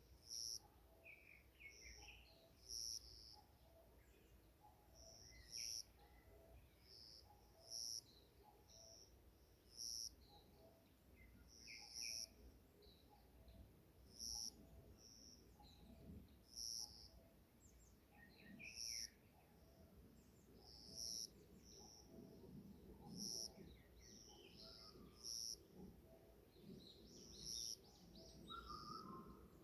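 Forest birdsong: one bird repeats a short, high call about every two seconds, with softer chirps from other birds between.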